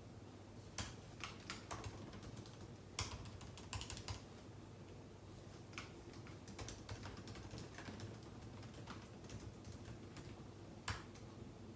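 Typing on a computer keyboard: irregular bursts of key clicks with pauses, a few louder keystrokes standing out, over a low steady hum.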